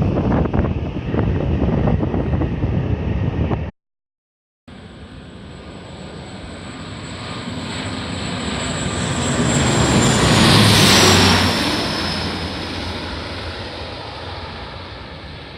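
Airliner passing low overhead on landing approach: its engine noise swells to a peak about 11 seconds in and then fades, with a high whine that drops in pitch as it goes over. Before that, the rumble of another aircraft cuts off abruptly about 4 seconds in, followed by a second of silence.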